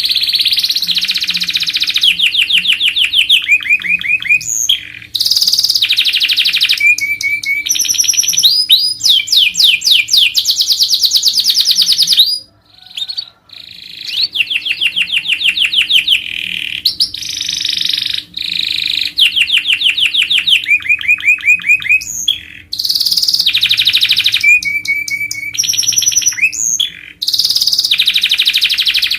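Domestic canary singing a long, continuous song of fast rolling trills and quick upward-sweeping notes, with a brief pause about halfway through.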